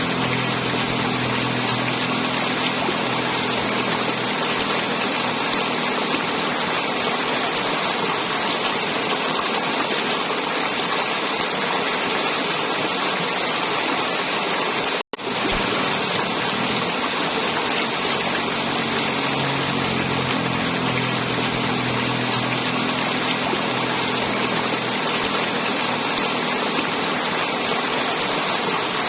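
River water flowing and gurgling in a steady, dense rush, broken once about halfway through by a split-second drop to silence.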